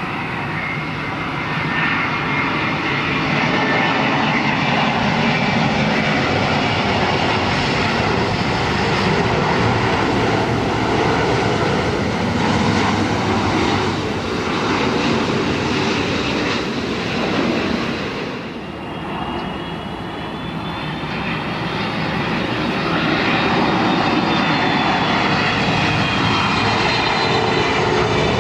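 A Boeing 747-400 freighter's four jet engines run loudly and steadily. About two-thirds of the way through there is a brief dip, after which a high engine whine comes through with slowly gliding tones.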